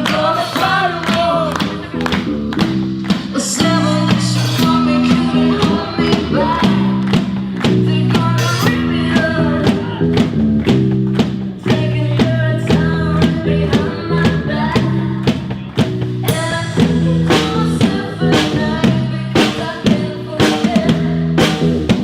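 Rock band playing a song: drum kit keeping a steady beat under bass and electric guitar, with a singing voice over the top.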